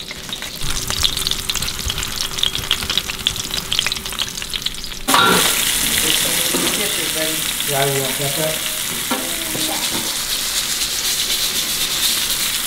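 Battered crappie bites frying in hot coconut oil in a cast-iron skillet: a steady crackling sizzle that turns suddenly louder and hissier about five seconds in.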